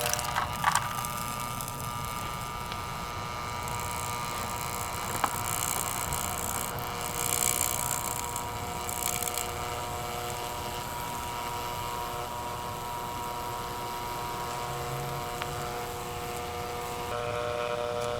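A steady mechanical hum made of several held tones, with one sharp click about five seconds in and bursts of hiss between about four and nine seconds.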